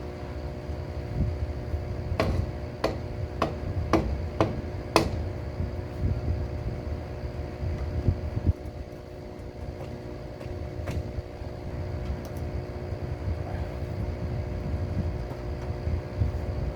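Steady mechanical hum like a running fan or motor. About two seconds in comes a quick run of about six light knocks or taps, with single taps later on.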